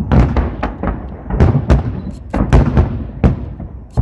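Aerial fireworks shells bursting overhead in a rapid, irregular series of booms, about a dozen in four seconds, each trailing off in a short rumble.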